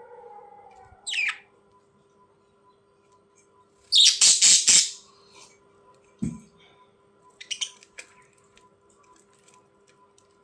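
Pet budgerigars calling: a short chirp about a second in, then a loud burst of harsh squawks around four seconds in, and a few softer chirps near the end. A short low thump comes just after the squawks.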